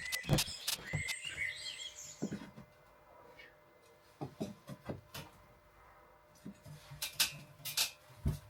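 Scattered light knocks and taps of wooden boards being handled, with a few short squeaks in the first two seconds and a low thump near the end.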